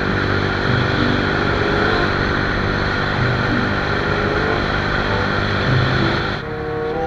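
Motorcycle engine running while riding, with wind noise on the microphone; about six seconds in the wind noise cuts off abruptly and music takes over.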